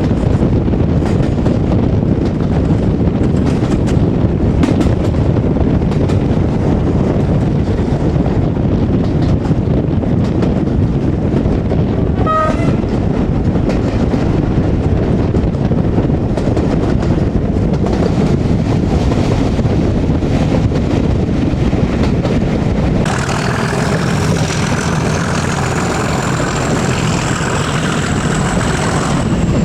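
Heritage train hauled by Class 37 diesel 37667 running steadily, heard on board, with clicks from the rail joints. There is a brief toot about twelve seconds in, and a high squeal that rises and then falls over the last few seconds.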